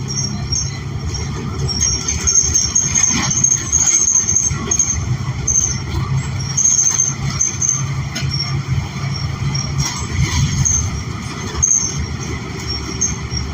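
Inside a New Flyer XN40 natural-gas transit bus under way: a steady low drone of its Cummins Westport L9N engine and road noise, with short high-pitched squeaks coming and going and a few brief knocks and rattles.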